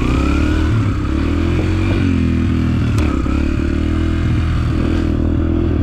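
Dirt bike engine running loudly and steadily, its pitch rising and dipping a little in the first couple of seconds before holding even.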